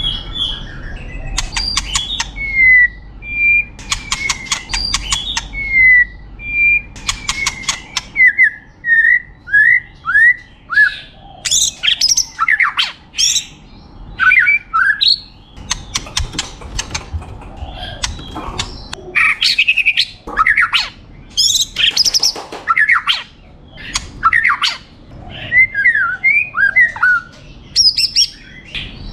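White-rumped shama (murai batu) singing a long, varied song: bursts of fast rattling trills, runs of short whistled notes that slide down in pitch, and quick high chirps, one phrase after another with brief gaps.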